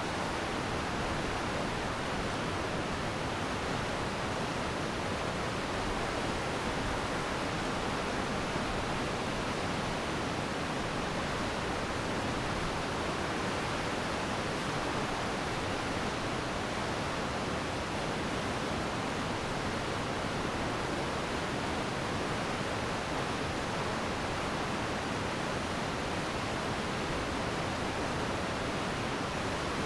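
Glacier meltwater stream rushing steadily, a dense even water noise with no single splashes standing out.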